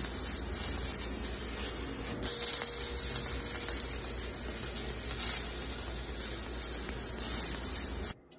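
Electric arc welding: a steady crackling hiss from the welding arc as a bead is run, which cuts off suddenly about eight seconds in.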